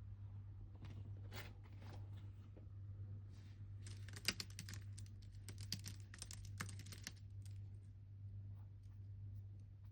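Computer keyboard typing: a few scattered keystrokes, then a quick run of key clicks for about three seconds, then a few more light taps, over a steady low hum.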